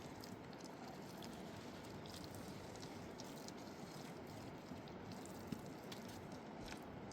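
Steady rush of flowing river water, with a few faint clicks and taps.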